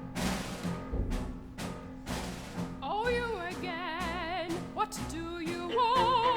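Opera music: ensemble accompaniment of sharp, ringing struck notes every half second or so over a held low note. About three seconds in, an operatic voice enters, singing sustained notes with wide vibrato.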